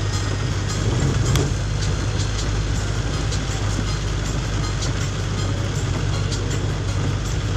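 Steady low rumble of a vehicle on the move, heard from inside, with scattered light ticks over it.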